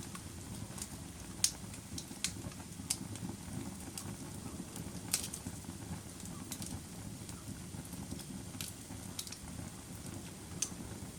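Wood fire burning in a fireplace: a steady low rumble of the flames with sharp, irregular crackles and pops from the burning wood, about one every second.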